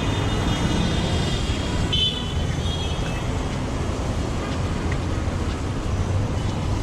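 Busy road traffic running steadily, with car horns honking; the loudest horn blast comes about two seconds in.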